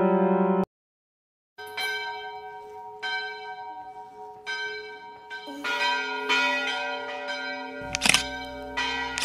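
A sustained music chord cuts off about half a second in; after a short silence a bell starts ringing, struck again and again at an uneven pace, each strike ringing on. Near the end the ringing gets louder and faster over a low rumble.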